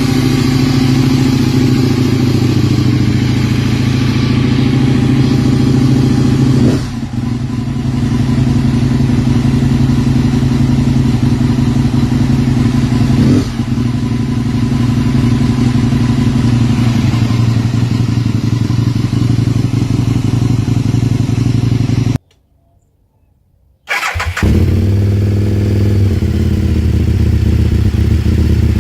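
2003 Aprilia Tuono 1000's V-twin engine running steadily at idle through its exhaust, its pitch not rising or falling. It cuts out suddenly for about two seconds a little past the middle, then comes back with a different, deeper tone.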